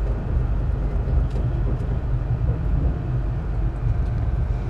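Steady low rumble of a moving Sunlander passenger carriage running on the rails, heard from inside the carriage, with a few faint ticks.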